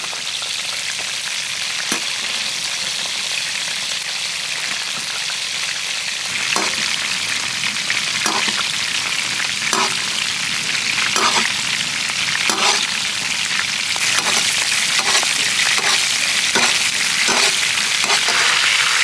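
Whole spiny lobsters sizzling in a large wok over a wood fire, a steady frying hiss. From about a third of the way in, short pops and crackles come every second or so, and the sizzle grows louder over the last few seconds.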